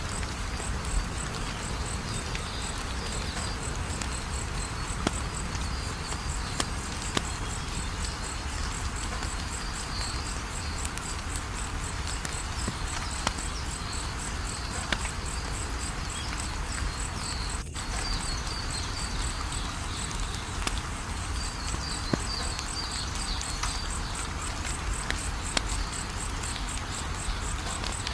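Wood fire crackling, scattered sharp pops over a steady low hiss, with crickets chirping in a fast, even pulse.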